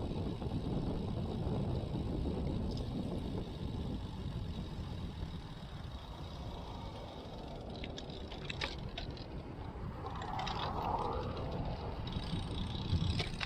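Riding a road bike, heard through a chest-mounted action camera: steady wind and tyre-on-road rumble, with a few sharp clicks about eight to nine seconds in.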